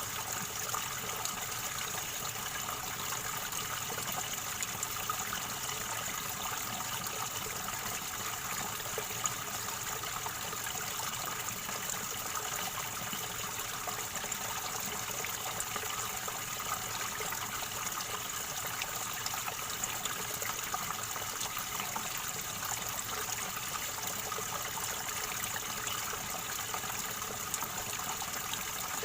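River water gurgling and trickling steadily.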